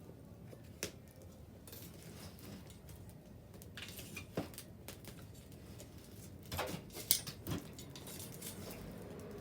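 Wood bonfire crackling softly, with a handful of sharp pops from the burning wood, the loudest about seven seconds in.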